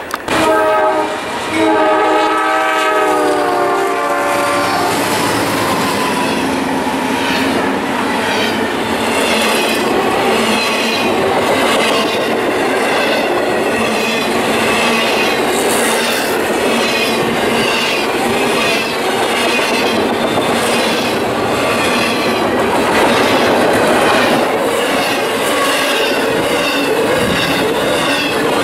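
A freight locomotive's multi-chime air horn sounds for about four seconds as the train arrives close by, its chord falling slightly in pitch, followed by a double-stack intermodal train's well cars rolling past with a steady loud rumble and a rhythmic clatter of wheels on rail.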